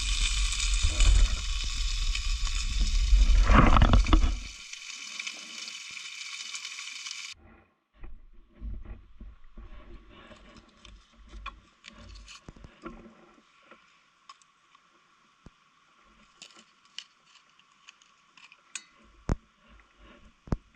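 Food sizzling in a pan over a campfire, with a loud low rumble under it for the first few seconds. The sizzling cuts off abruptly about seven seconds in, leaving faint scattered crackles and ticks.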